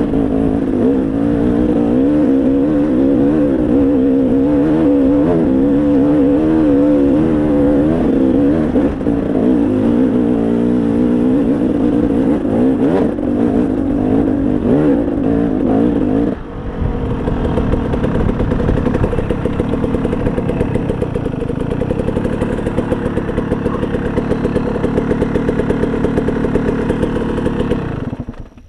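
Dirt bike engine running under way, revving up and down as the throttle is worked for the first half. About sixteen seconds in it dips suddenly, then runs steadier at a lower pitch until it cuts off just before the end.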